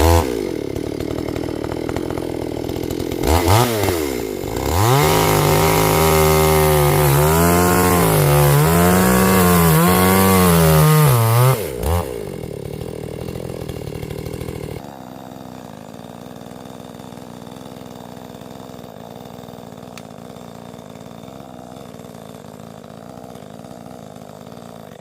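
Two-stroke chainsaw engine idling, then revved up and down about once a second for several seconds before dropping back to idle. A quieter steady drone fills the last ten seconds.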